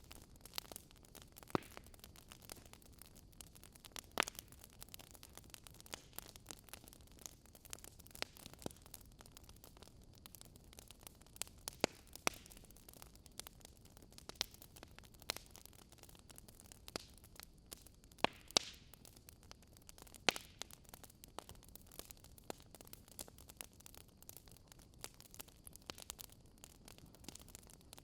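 Burning firewood crackling: irregular sharp pops and snaps, a few louder than the rest, over a soft steady hiss.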